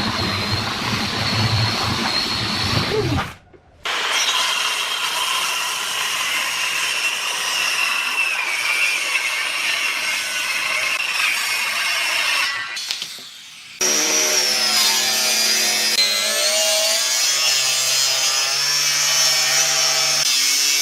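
Power tools cutting and working wood, in three shots cut off abruptly: a motor running with a steady high whine over a noisy cutting sound, then a lower machine hum whose pitch wavers under load.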